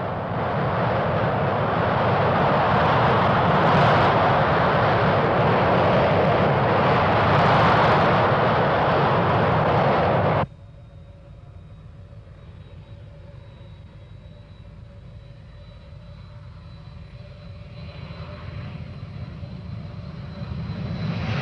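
BAC One-Eleven jet airliner's Rolls-Royce Spey engines: a loud, steady jet noise that cuts off suddenly about ten seconds in. It is followed by a much quieter jet whine with a thin high tone, slowly growing louder.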